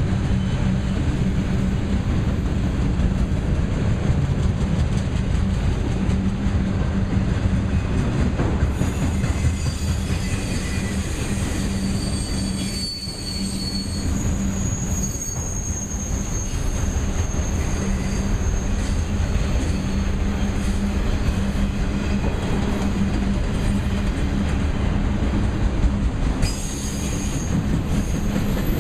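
Freight train of auto-rack cars rolling past with a steady rumble of wheels on rail. High, thin wheel squeal comes in about a third of the way through, fades, and returns near the end.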